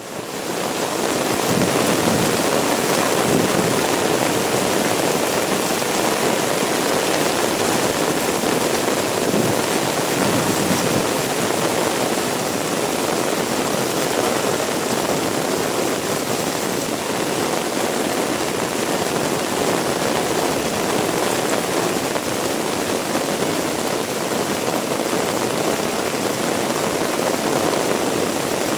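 Heavy rain falling steadily, a dense even hiss that fades in over the first second or so.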